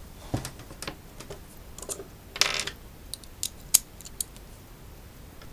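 Small hard parts and tools clicking and clinking as they are handled and set down during disassembly of an electric unicycle. There is a brief scrape about two and a half seconds in, and a few sharp clicks follow.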